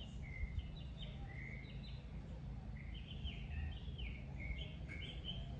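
Birds chirping outdoors: a continual run of short, high chirps and trills, over a steady low background rumble.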